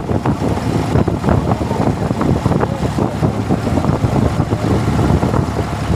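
A tour boat's engine running steadily under way, with wind buffeting the microphone.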